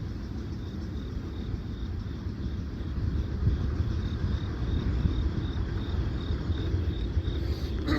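Union Pacific train passing with a steady low rumble that grows louder about three seconds in. A faint high ringing repeats about twice a second throughout.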